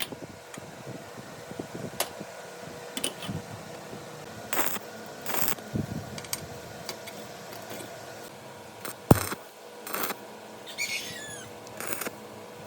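Scattered clicks and knocks of hand work on metal parts, over a faint steady hum, with a short run of bird chirps about eleven seconds in.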